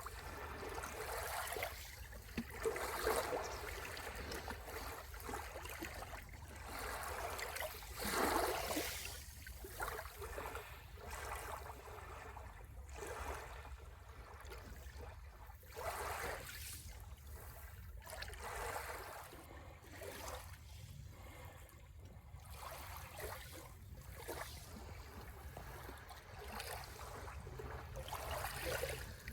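Sea waves washing onto the shore in irregular surges a few seconds apart, the strongest about eight seconds in, over a steady low rumble.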